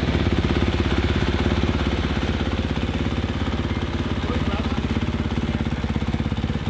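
Motocross bike engine idling steadily, an even low pulsing.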